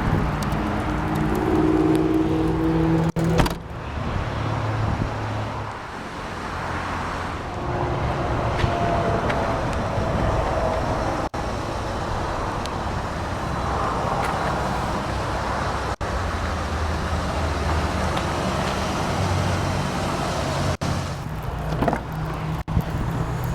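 2003 Cadillac DeVille's Northstar V8 running with road noise as the car is driven. The sound breaks off sharply for an instant several times.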